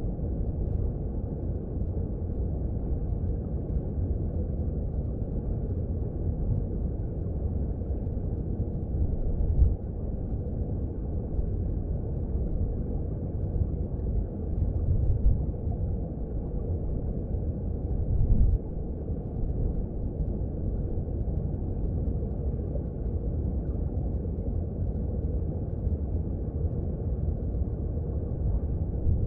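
Underwater sound of a mountain stream: a steady low rumble of flowing water, with a few brief louder swells.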